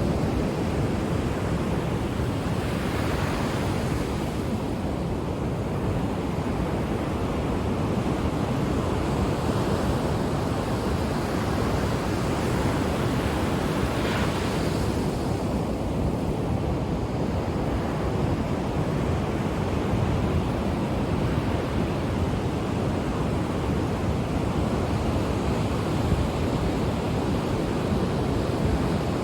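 Ocean waves breaking on a shore: a steady wash of surf, with two stronger breaks, a few seconds in and again about halfway.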